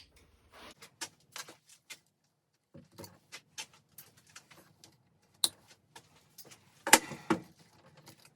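Wire cutters snipping the last wires out of a ceiling fan, with metal parts and wires clicking as they are handled: a series of irregular sharp clicks, the loudest cluster about seven seconds in.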